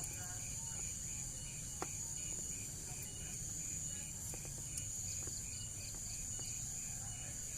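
Insects chirping: a steady high trill, with a second, pulsed chirp repeating about three times a second over a low background hum.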